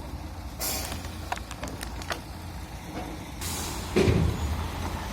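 Heavy vehicle engine running low and steady, with two short hisses and a few light metallic clicks.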